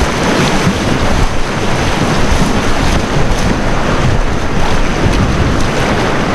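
Rushing whitewater of a river rapid, with wind buffeting the microphone and the splashes of a kayak paddle taking hard strokes upstream.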